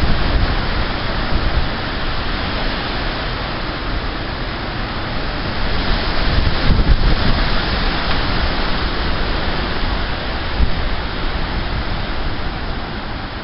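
High winds of a thunderstorm's wind storm blowing hard in gusts, with low rumbling buffeting on the microphone; a stronger gust swells about six seconds in, then the wind eases a little toward the end.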